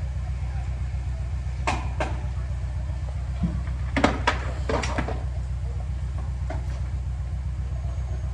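A heavy machine's engine idling steadily with a low, evenly pulsing rumble, with several sharp knocks scattered over it, the loudest pair about four seconds in.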